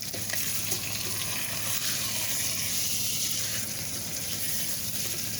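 Ribeye steak frying in butter and oil in an Instant Pot's inner pot, a steady sizzling hiss.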